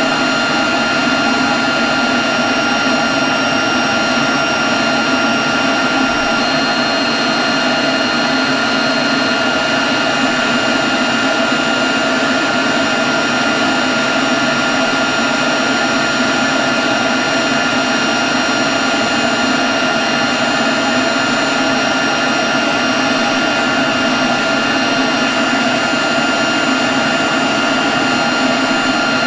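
Leaf blower running steadily at constant speed: a dense, even rush of air with a steady high whine over it.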